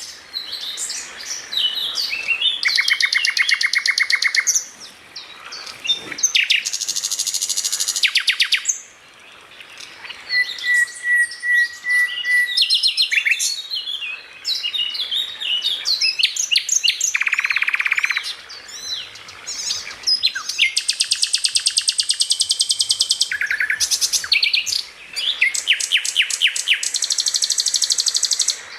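Songbird masteran recording: a bird singing a fast, varied song that keeps switching between rapid trills, buzzy chatter and clear whistled notes, with short pauses between phrases.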